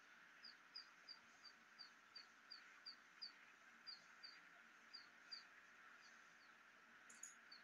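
A small bird chirping faintly and over and over, short high notes about three a second, then a brief soft crackle near the end.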